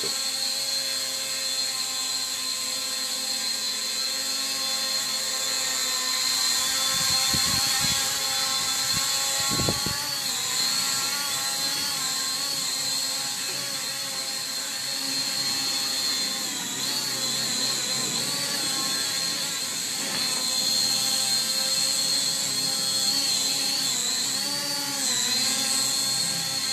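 Blizzard quadcopter drone's small electric motors and propellers whining steadily in flight, the pitch wavering slightly now and then as the motors adjust.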